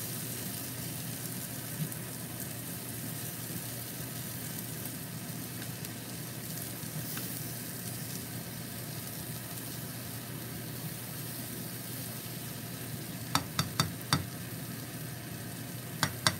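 Sautéed tomatoes sizzling steadily in a frying pan as they are stirred with a spatula. A few sharp knocks of the spatula against the pan come near the end.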